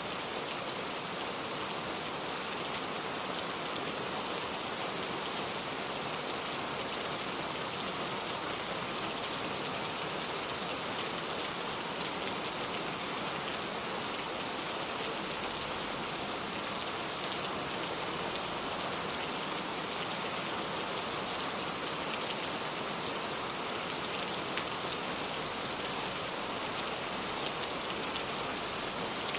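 Heavy rain pouring steadily, a dense even hiss of drops striking surfaces with fine ticks of individual drops throughout.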